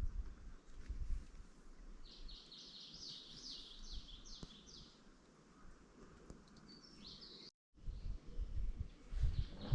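A small songbird singing a quick run of short, falling notes a couple of seconds in, with another brief phrase later, over a faint low rumble of outdoor ambience.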